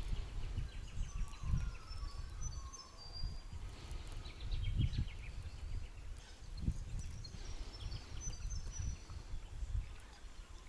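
Birds calling with short whistled notes and quick trills, over a gusty low rumble of wind on the microphone.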